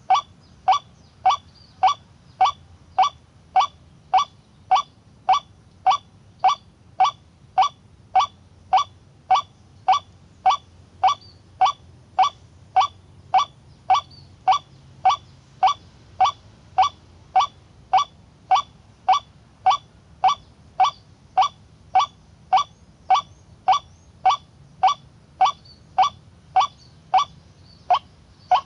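White-breasted waterhen call, one short honking note repeated evenly about twice a second without a break.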